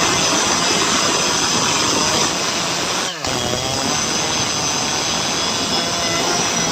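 Jonsered 2095 Turbo chainsaw, a 93.6 cc two-stroke, running at high revs and cutting wood. The sound drops out briefly a little after three seconds in, then the engine note climbs back and holds steady.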